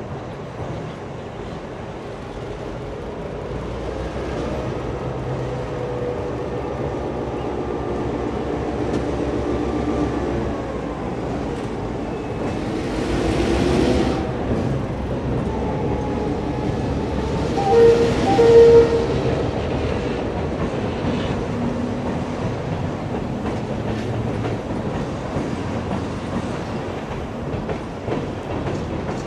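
An EMD GP9 diesel locomotive, its 16-cylinder two-stroke engine working under load, passes over a steel girder bridge, loudest as it goes by about halfway through. Empty tank cars then roll across behind it with a steady rumble and wheel clatter.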